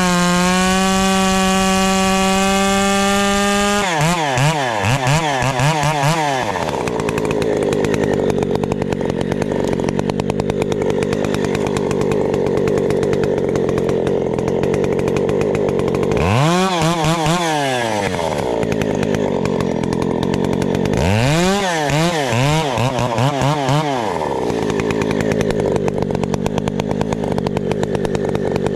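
Two-stroke chainsaw held at steady full throttle for about four seconds, then blipped up and down a few times and dropped to idle. It is revved briefly again about two-thirds of the way through, then goes back to idling.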